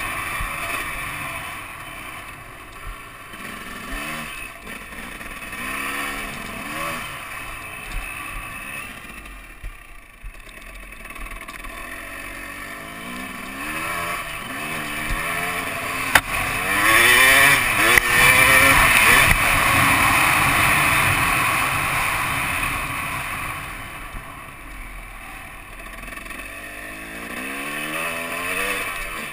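KTM 250 two-stroke dirt bike engine, ridden off-road and heard from on the bike, revving up and easing off again and again. The loudest, hardest pull comes a little past the middle.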